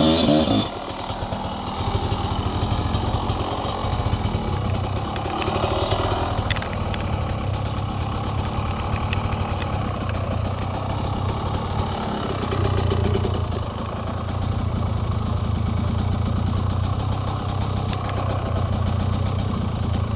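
Enduro dirt bike engine running at low revs, swelling and easing a little with the throttle, with a few faint knocks.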